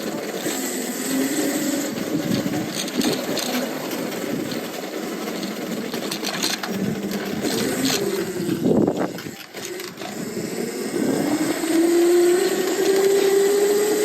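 Lightning Rods drive motor of a titanium e-bike whining while riding, over road and wind noise; near the end its pitch rises steadily as the bike speeds up.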